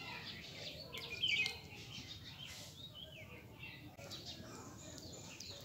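Birds chirping, a mix of short high calls, with the loudest burst a little over a second in.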